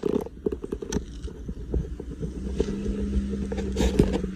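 Car engine running low, with scattered clicks and knocks. A steady hum joins a bit past halfway through.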